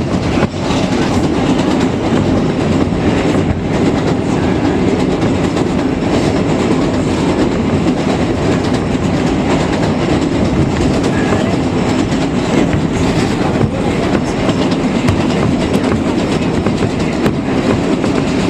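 New York City Subway 7 express train running at speed on the elevated Flushing line: a steady rumble of wheels on rail with occasional clicks from the rail joints.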